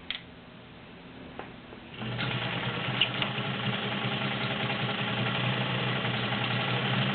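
White model 530 all-metal sewing machine with its 1.3 amp motor starting to sew about two seconds in and running steadily at an even speed, quiet and smooth, after a couple of light clicks.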